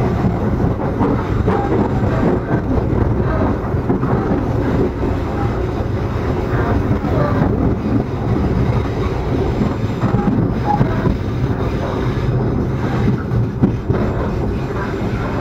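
Tegal Bahari passenger train running on the rails, a steady rumble heard from inside a carriage.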